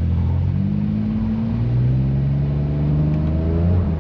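BMW F80 M3's twin-turbo inline-six with catless downpipes and an open valved exhaust, accelerating: the revs climb steadily for about three seconds, then drop away near the end as the throttle comes off or it shifts.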